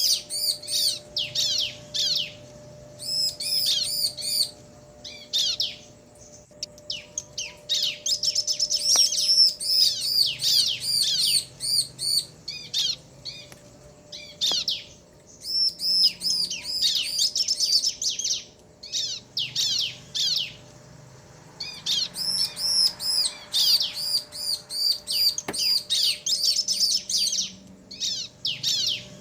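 Bar-winged prinias (ciblek), male and female, calling back and forth in rapid bouts of high, sharp chirps, with short pauses between bouts.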